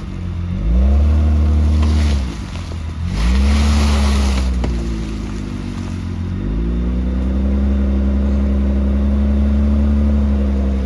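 V6 car engine revving up and dropping back twice under load as the car climbs a dirt hill, then pulling at steady revs from about two thirds of the way in. A rushing noise comes and goes with the second rev.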